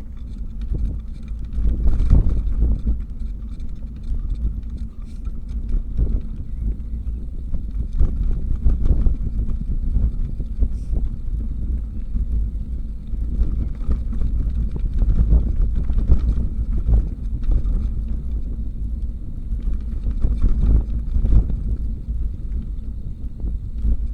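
Wind rumbling on the microphone of a moving bicycle, with frequent rattles and knocks from the bike going over the road surface.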